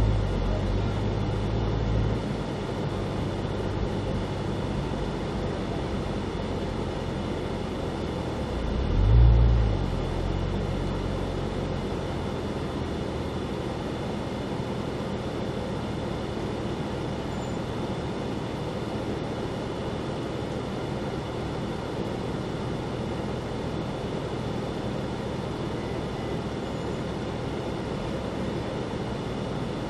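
Cadillac CT5-V Blackwing driving slowly, heard from inside the cabin: a steady engine and road rumble with two brief low swells, the louder one about nine seconds in.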